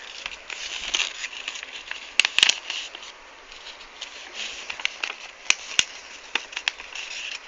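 Sheet of paper rustling and crinkling as it is folded and creased by hand, with a few sharp crackles.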